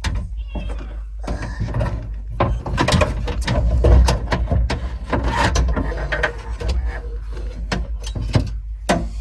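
Metal window regulator being worked into a pickup door's inner panel, clattering and scraping with many irregular clicks and knocks against the sheet metal, loudest about three to four seconds in.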